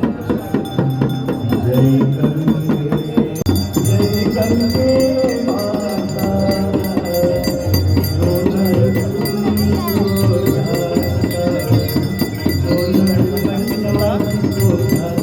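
Live aarti music: devotional singing with rhythmic rattling percussion, joined about three seconds in by bright ringing bells.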